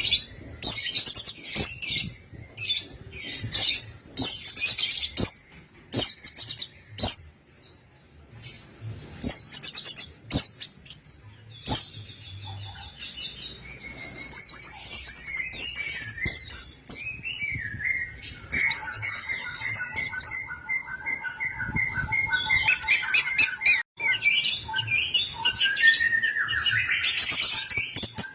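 Orange-headed thrush song: rapid, high trilling phrases broken by short pauses, with a run of lower, steadier whistled notes about two-thirds of the way through.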